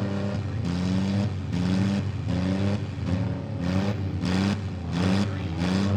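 Demolition derby car engines revving again and again, the pitch climbing in short pushes about once a second.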